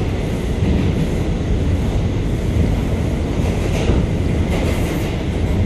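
Interior ride noise of an R179 New York subway car under way: a steady low rumble of wheels and motors on the track, with a few faint clicks of wheels over rail joints near the end.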